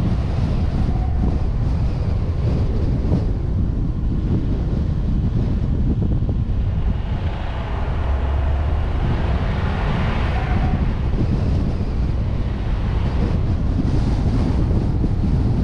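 Wind buffeting a car-mounted action camera while the vehicle drives at speed, a steady low rumble of road and engine noise under it. A broader rushing swell rises and fades about halfway through.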